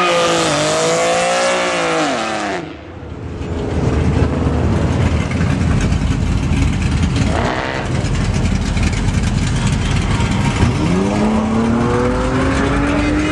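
Car engine revving hard, its pitch rising and falling several times, then dropping away briefly about three seconds in. Revving goes on over a steady rushing noise, with a short rev midway and a long rising rev near the end, typical of a car doing a burnout or donut.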